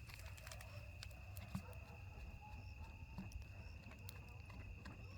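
Crickets chirring in one steady, unbroken high trill, with faint scattered clicks and a low rumble underneath.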